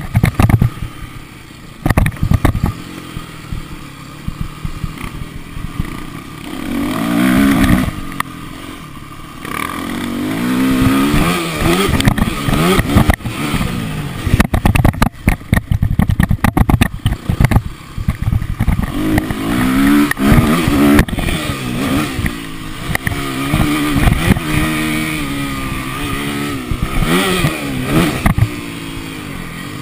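Motocross bike engine revving as it is ridden, its pitch climbing and dropping many times over, with frequent knocks and clattering, thickest about halfway through.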